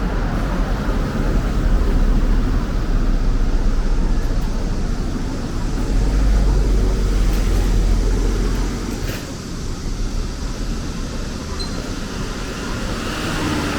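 Steady city street traffic noise: the low rumble of passing vehicles, swelling about halfway through and easing off after.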